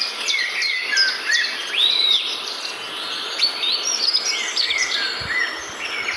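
Several birds chirping and singing at once, a busy chorus of short, overlapping whistled calls, some sweeping up or down in pitch.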